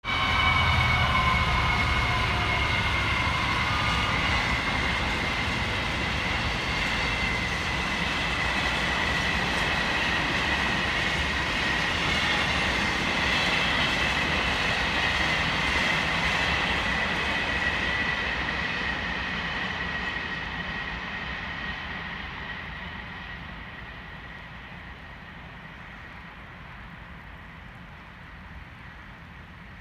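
A Class 66 diesel locomotive hauling a steel freight train passes by, with the rolling clatter of its wagons and a steady high whine that falls slightly in pitch. The sound fades away from about 18 seconds in as the train moves off into the distance.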